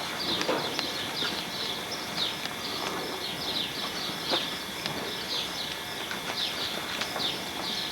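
Small birds chirping steadily, a quick run of short, high, falling chirps at about two or three a second, with a few faint knocks underneath.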